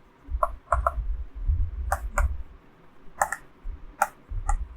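Computer keyboard clicking: about eight scattered keystrokes, some in quick pairs, over a low rumble.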